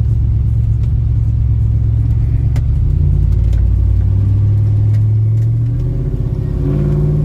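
Truck engine running on the move, a steady low rumble that eases off about six seconds in and then picks up again at a new pitch.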